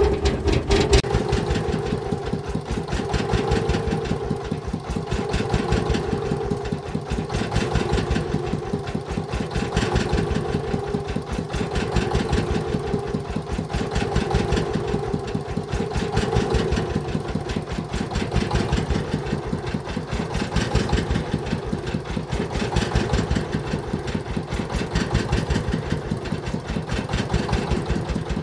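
Diesel engine of a farm vehicle running steadily at low speed with a rapid knocking clatter. Its level swells and eases about every two seconds.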